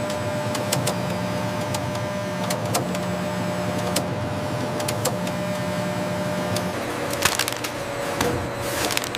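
Factory production-line machinery running: a steady mechanical hum with a low drone that cuts in and out every second or two, and scattered sharp clicks that come thicker near the end.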